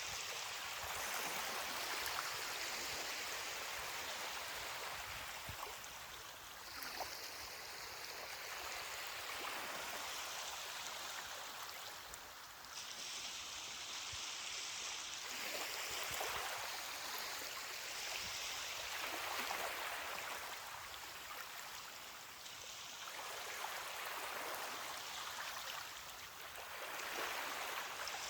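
Ocean surf washing onto a beach, a steady hiss of water that swells and eases as each wave comes in, every few seconds.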